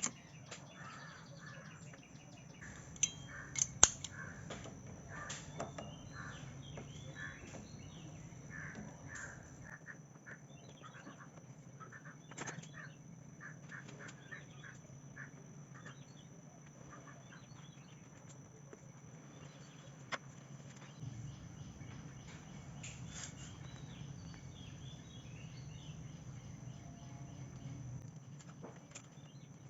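Birds calling over and over in the background, with a few sharp clicks or taps, the loudest about four seconds in, and a faint steady high-pitched tone.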